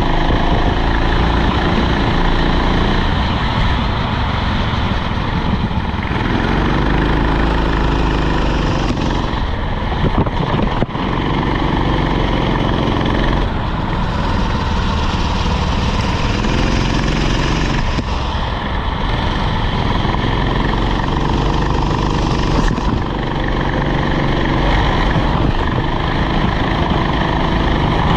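Rental kart's small engine running hard on the track, its pitch repeatedly climbing and dropping every few seconds as it accelerates and lifts through corners. A few sharp knocks sound around ten seconds in.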